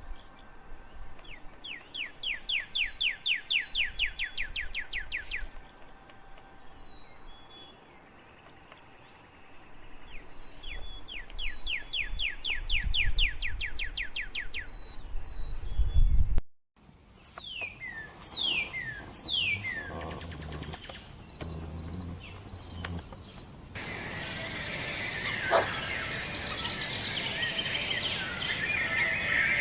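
Songbirds singing: a fast trill of about five evenly repeated notes a second, heard twice, then a few clear notes sliding down in pitch, then several birds chirping together. The sound changes abruptly twice, as from one recording to another.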